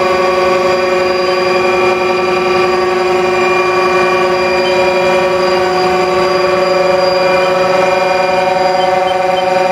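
Haas TL-2 CNC lathe running under power: a loud, steady machine whine and hum, changing slightly in tone about halfway through.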